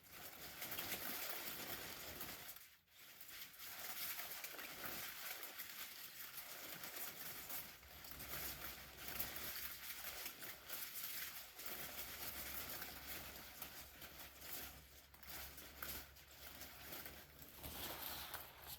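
Umbrella being handled close to the microphone: a soft, continuous rustling and crinkling that wavers in strength, with a brief pause about three seconds in.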